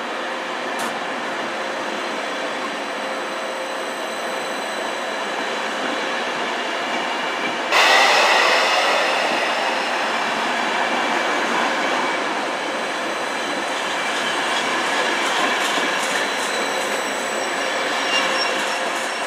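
ÖBB passenger coaches rolling past a station platform as the train pulls out, a steady rumble and rush of wheels on rail. The noise turns suddenly louder about eight seconds in.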